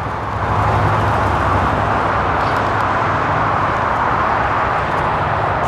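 2018 GMC Yukon Denali's 6.2-litre V8 idling steadily just after a remote start, with a steady rushing hiss over the low engine hum.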